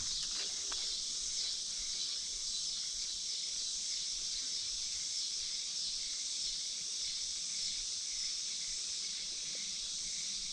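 Steady high-pitched chorus of insects, crickets among them, droning without a break.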